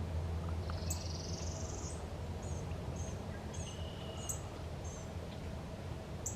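Small songbirds chirping, with a short high trill early on and a few sharp chip notes, over a steady low background rumble.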